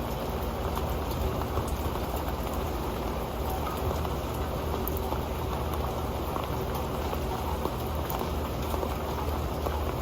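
Steady rain falling on an old pan: a dense, even patter with many small individual drop taps on the metal.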